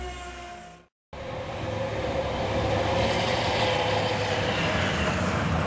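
A train rolling along the station tracks: a loud, steady running noise with a steady whine, building up over a couple of seconds after a short cut-out about a second in. Before the cut-out there is a quieter steady hum.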